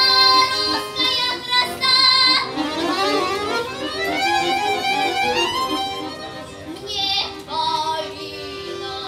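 A child singing a Russian folk-style song with instrumental accompaniment, with held notes and a long rising run in the middle.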